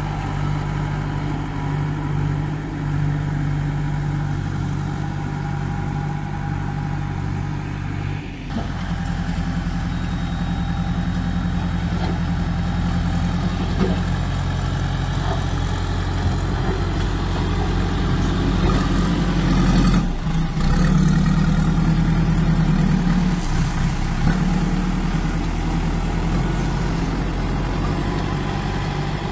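JCB 2DX backhoe loader's Kirloskar diesel engine running steadily, its note changing about eight seconds in and again about twenty seconds in, a little louder after the second change.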